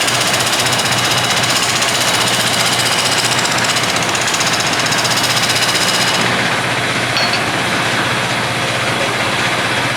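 Wood lathe spinning a bowl blank while a turning tool cuts into it, a loud, steady, fast rattling chatter of the cut. The sharp high part of the sound drops away about six seconds in.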